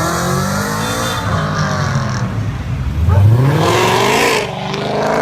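Car engine revving, its pitch rising and falling, with a sharp climb in revs about three seconds in.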